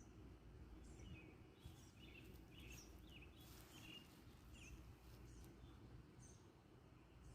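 Faint birdsong: short chirps and quick slurred notes, several a second, from small birds over a low, steady outdoor rumble.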